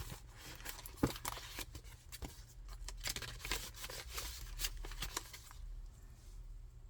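Paper being handled and pages of a handmade junk journal turned: light rustles and small taps and clicks, thinning out after about five and a half seconds.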